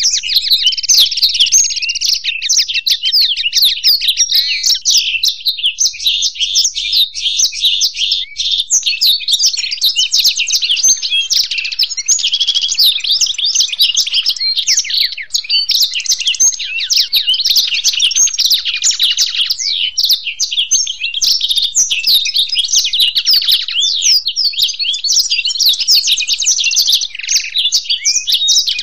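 Blackthroat (black-throated canary) and European goldfinch singing together in one long, unbroken stream of fast twittering trills and chirps.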